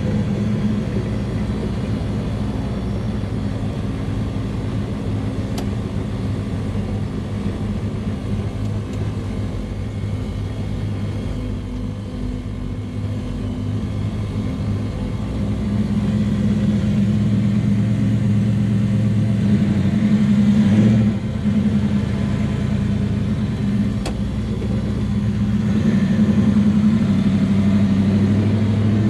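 Big-block V8 of a 1967 Chevelle drag car running under light load while cruising, heard from inside the car: a steady low engine drone. It grows louder about halfway through, with a brief dip about three-quarters of the way in.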